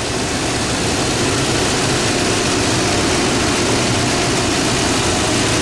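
2003 Toyota Tundra engine idling steadily with a newly fitted serpentine belt, running smooth.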